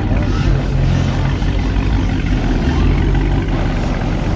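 Car engine running with a loud, steady deep rumble.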